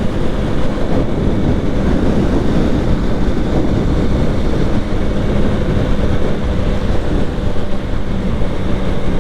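Motorcycle under way: wind and road noise rushing over the helmet-mounted action camera's microphone, with the engine's steady hum underneath.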